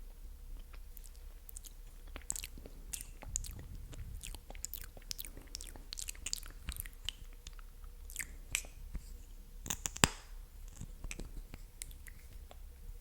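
Close-miked ASMR mouth sounds: a stream of irregular wet, sticky clicks and smacks of the tongue and lips, with a louder click about ten seconds in.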